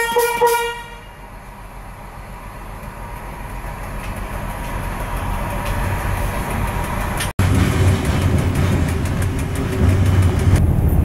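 Diesel railcar's horn sounds two short blasts, then the train's engine and running noise build steadily louder as it gets under way. After an abrupt break about seven seconds in, a heavier low rumble of the railcar running.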